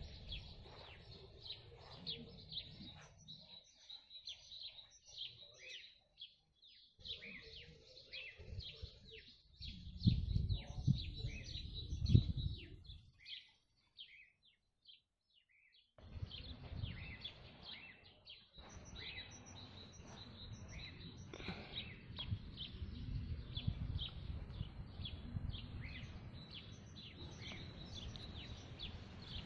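Small songbirds chirping and singing continuously, with a low rumbling on the microphone that swells loudest near the middle. The sound drops out completely for a couple of seconds about halfway through, then the birdsong resumes.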